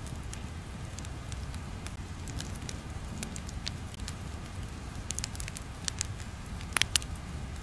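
A steady low rumble with irregular crackles and pops scattered over it, a sharp pair of louder pops near the end.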